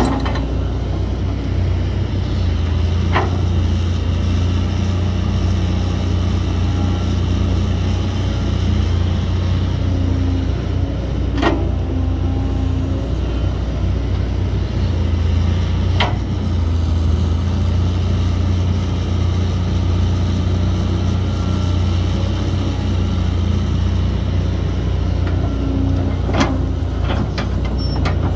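Heavy earthmoving machine's diesel engine running steadily under load, with a few sharp knocks from the machinery now and then.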